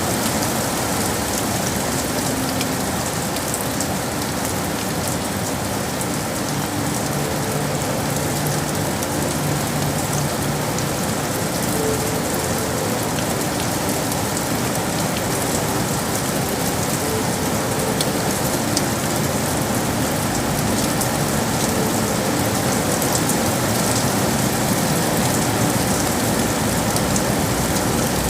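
Steady rain falling on hard surfaces, a dense even patter without a break.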